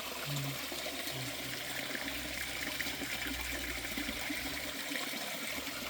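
Steady flowing river water, trickling over stones, with faint voices briefly in the first second.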